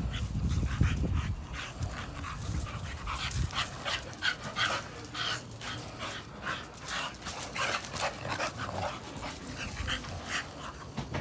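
Young dogs play-fighting, making many short, quick sounds, several a second.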